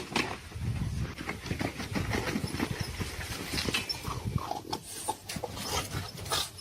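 An animal's short squeaky calls a little past the middle, among a steady patter of knocks and rustles.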